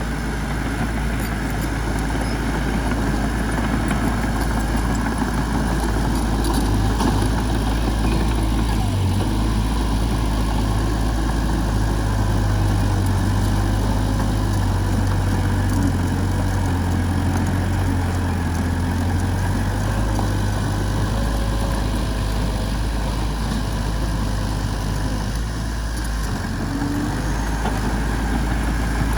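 Heavy-equipment diesel engine running steadily with a deep, even hum, easing slightly for a moment near the end.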